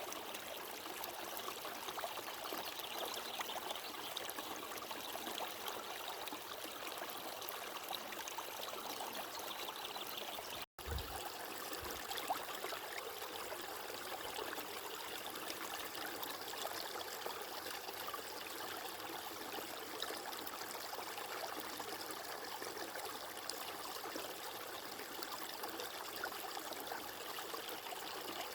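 Steady rushing and trickling of a flowing stream. About eleven seconds in, the sound cuts out for an instant and comes back with a soft low thump.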